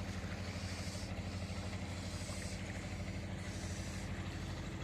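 A motor running steadily at a constant speed, a low even hum with a fast regular pulse.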